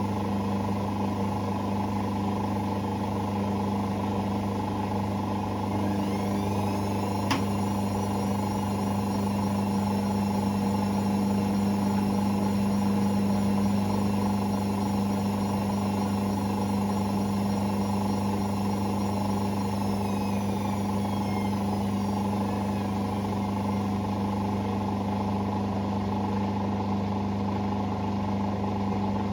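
Hoover Sportswear 1300 AI130 washing machine running over a steady low hum. About six seconds in, a high motor whine rises, holds steady, and falls away about twenty seconds in, with a single click near the start of the whine.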